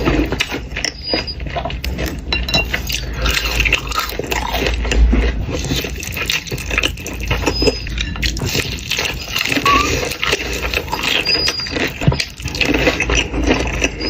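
Close-miked eating sounds: chewing and wet mouth sounds as fried chicken and spicy cheesy ramen are eaten, with many small clicks and crackles.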